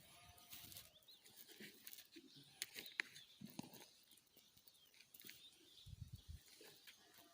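Near silence with faint rustling, scattered light clicks, and a couple of soft low thumps about six seconds in.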